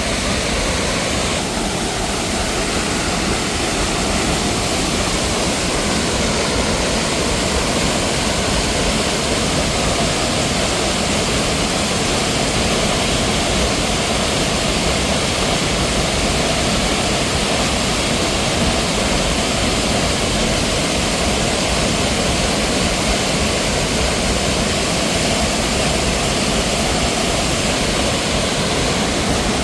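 Mountain waterfall: steady, loud rushing of falling water, unbroken throughout.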